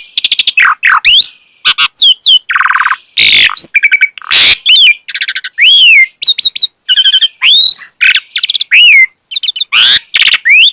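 Asian pied starling singing a rapid, varied song: quick rising and falling whistles broken by harsh grating squawks, the bird in full voice.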